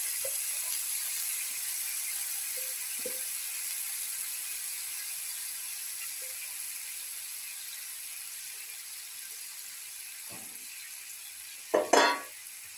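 Cooked clam meat sizzling in hot oil in a frying pan, the sizzle slowly fading. A brief, louder clatter comes near the end.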